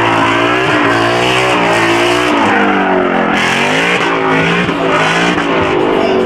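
Muscle car engine revving hard with its pitch rising and falling, over continuous tyre squeal from a burnout or spin.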